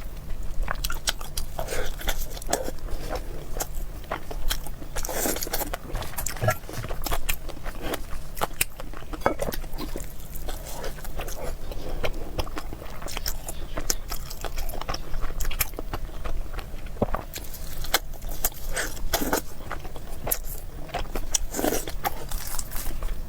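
Close-miked eating sounds: a person biting and chewing food with many small irregular mouth clicks and smacks.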